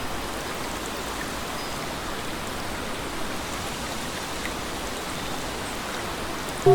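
Steady rain falling, an even hiss with no other sound standing out.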